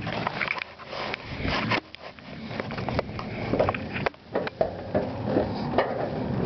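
Handling noise: rustling with scattered clicks and light knocks as a hand works the sticking latch of a VW Beetle's rear deck lid with the camera held close; no engine running.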